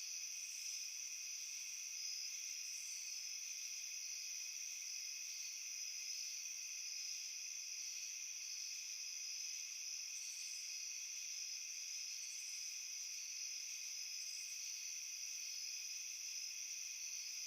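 Crickets chirping steadily, a dense chorus of high-pitched trills that holds evenly without breaks.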